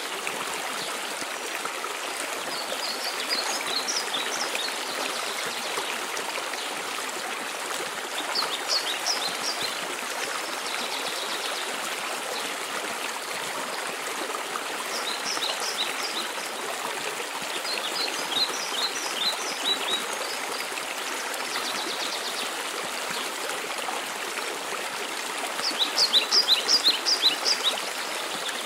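Steady rushing of a mountain waterfall, with a songbird singing short phrases of quick high notes every few seconds. The loudest phrase comes near the end.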